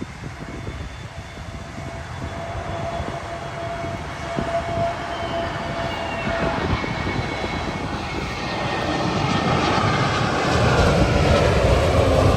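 Jet airliner flying in low overhead, its engine noise building steadily and loudest near the end, with a thin whine that slides down in pitch.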